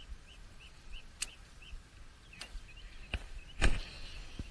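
A small bird chirping over and over in short notes, about three a second, with a few sharp clicks of fishing gear being handled. A louder knock comes near the end as the rod is swung into a cast.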